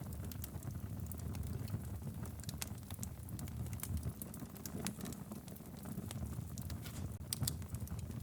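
Wood fire burning in a fireplace: frequent sharp crackles and snaps over a low steady rumble of the flames.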